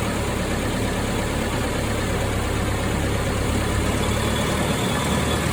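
Suzuki Jimny running with a gear engaged, a steady low drone from its R72 manual gearbox. The gearbox hum is still present after the bearing preload spacer washer was replaced with a 2 mm steel one.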